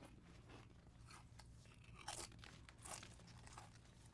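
Faint, intermittent crunching of someone chewing chips, a few crisp crunches spaced apart.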